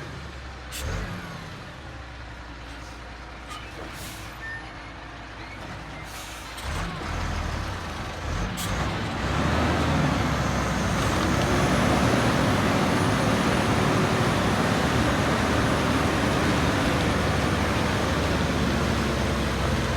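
Heavy truck engine running, quieter at first with a few short sharp sounds, then growing loud from about seven seconds in and staying loud and steady.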